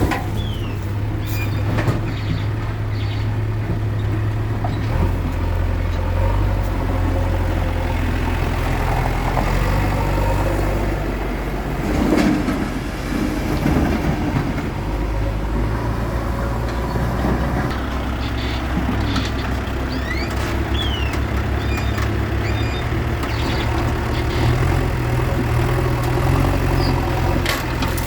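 JCB backhoe loader's diesel engine running as it loads mud, its note stepping up and down now and then. A few clunks and short high squeaks come through on top.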